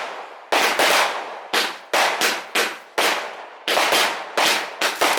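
Fireworks going off: about a dozen sharp bangs at irregular intervals, each tailing off over a fraction of a second.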